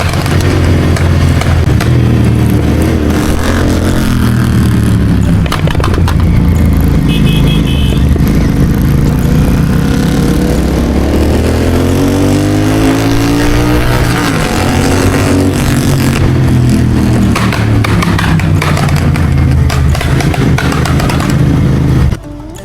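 Motorcycle engine running loud through an aftermarket exhaust, its pitch climbing and falling with the revs. The level drops sharply near the end.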